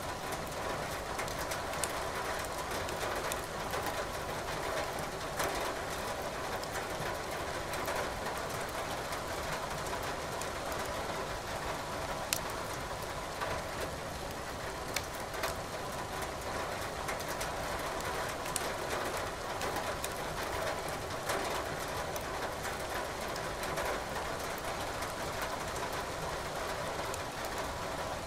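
Steady rain hiss mixed with a wood fire burning in a fireplace, its logs giving off scattered sharp crackles and pops.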